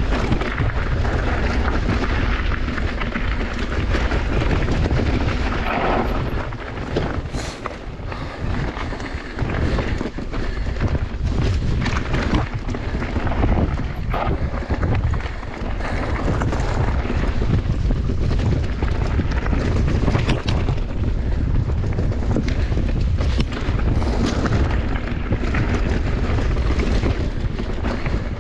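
Mountain bike ridden down a bike-park trail: wind buffeting the microphone in a steady low rumble, with tyres running over the dirt and the bike rattling over bumps in many short knocks.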